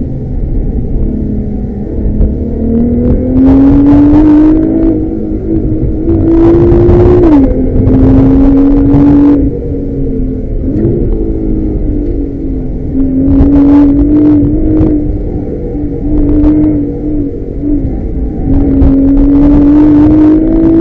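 Nissan GT-R R35's twin-turbo V6 heard from inside the cabin, driven hard: the engine note climbs under acceleration, drops sharply at a gearchange about seven seconds in, blips near eleven seconds, and climbs again several times. Short bursts of hiss ride over the loudest pulls.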